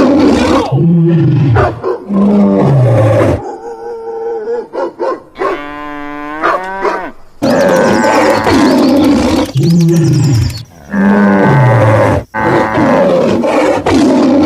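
Loud animal calls, repeated several times, each one falling in pitch, with a higher wavering call about six seconds in.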